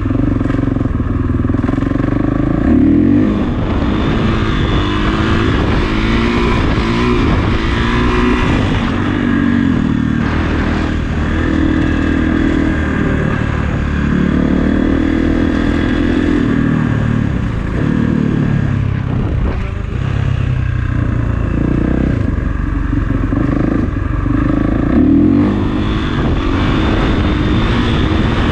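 Kawasaki KX450 dirt bike's single-cylinder four-stroke engine being ridden, its pitch rising and falling repeatedly as the throttle is opened and closed.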